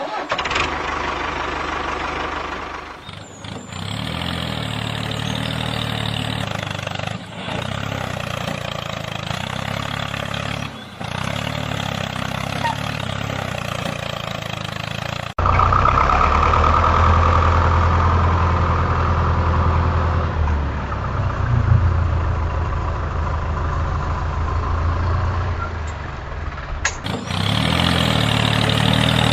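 Tractor engine running steadily at a low idle, in a string of clips joined by abrupt cuts. The low rumble gets heavier about halfway through.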